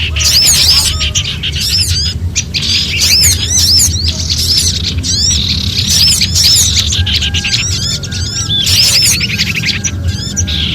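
Small songbirds calling in alarm together, a mix of prinias and other small birds: dense, rapid, repeated high chirps that never pause, over a steady low hum.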